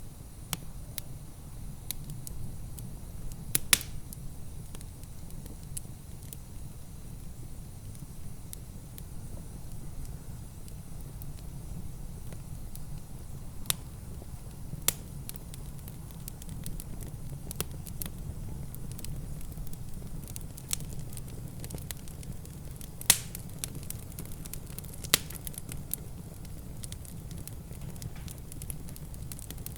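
Wood fire in a fireplace crackling, with scattered sharp pops, the loudest a few seconds in and twice more near the end, over a steady low rumble.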